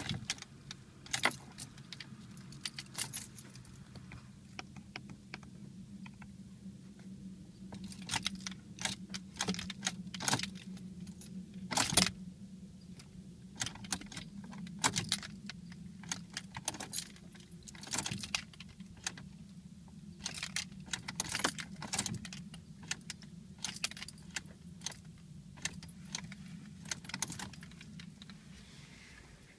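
Keys jangling and clicking at the ignition of a 2012 Ford Focus SE, in many sharp, irregular clicks, as the key is worked again and again, over a low steady hum. The engine does not crank: a no-crank starting fault that the dealer traced to the transmission control module.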